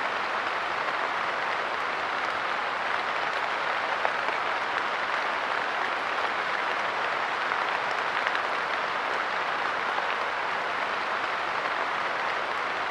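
Steady light rain pattering on a park bench, a dense even spray of small drop hits with no let-up.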